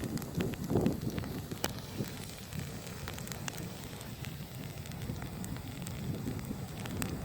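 Firewood burning: scattered, irregular sharp crackles and pops over a low, steady rumble of the fire.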